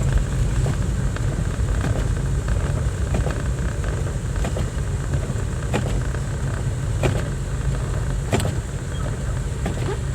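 A car driving on a snowy road: a steady low engine and road rumble with scattered light clicks and ticks.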